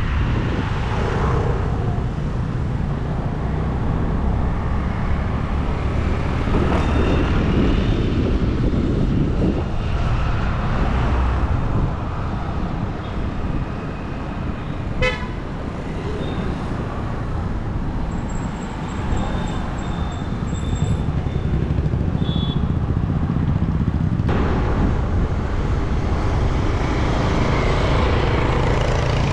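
Road traffic heard from a bike ride: a steady low rumble of vehicles and road noise, with a few short vehicle horn toots, the sharpest one about halfway through.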